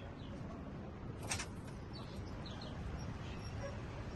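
White-rumped shamas giving faint, short chirps over a steady low hum, with one brief sharp rustle about a second in.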